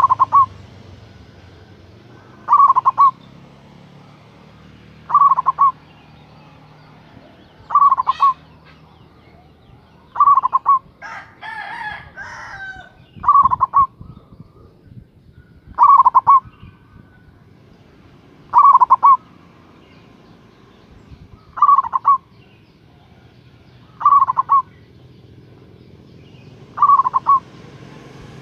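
Zebra dove (perkutut) cooing: short phrases of a few quick, rolling notes, repeated about every two and a half to three seconds. Around the middle, another bird gives a rougher, more scattered call.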